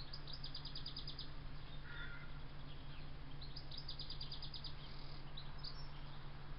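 A small songbird singing two quick trills, each of about ten high, evenly spaced notes, roughly three seconds apart, with a few single chirps near the end. A steady low hum of background noise runs under it.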